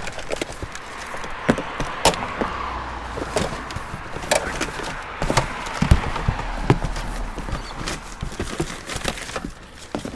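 Scattered knocks, clicks and clatters with rustling as discarded household electronics, cords and a box are picked up and sorted by hand.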